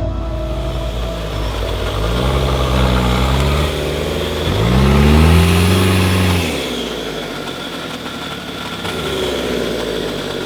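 Off-road 4x4 competition vehicle's engine revving under load, its pitch rising and falling twice, loudest about halfway through, over a steady rush of noise.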